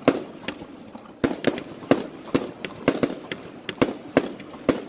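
A fireworks battery firing a rapid, irregular string of aerial shots, about three sharp bangs a second, each trailing off briefly as the shells burst overhead.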